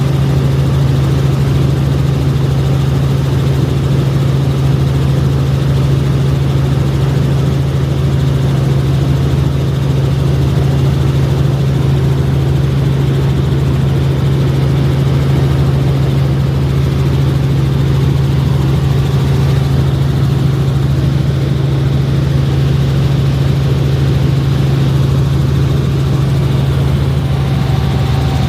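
Helicopter in flight: a loud, steady drone of engine and rotor with a strong low hum that does not change.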